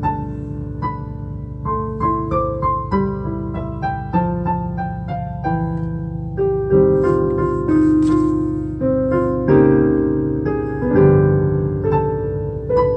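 Solo piano music: a melody of single notes struck about twice a second over held low notes and chords.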